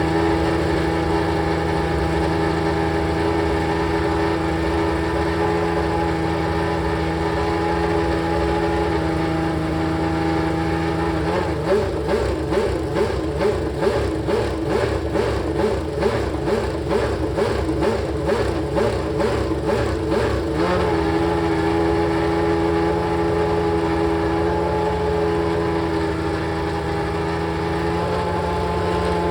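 Ferrari 639 Formula One car's 3.5-litre V12 idling steadily. About eleven seconds in it turns into about nine seconds of rapid, pulsing throttle blips, then it settles back to a steady idle.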